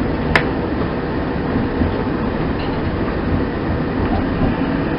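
Interior running noise of a Class 170 Turbostar diesel multiple unit under way: a steady rumble of wheels on track and engine. There is a single sharp click about half a second in.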